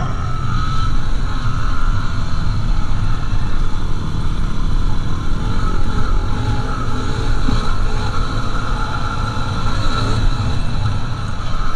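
Yamaha WR250R's single-cylinder four-stroke engine running at a fairly steady speed under way, over a heavy low rumble.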